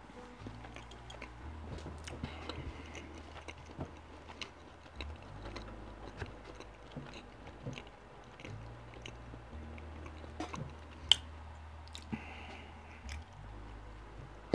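Close-miked chewing of a mouthful of pizza: soft, wet mouth clicks and smacks throughout, with one sharper click about eleven seconds in.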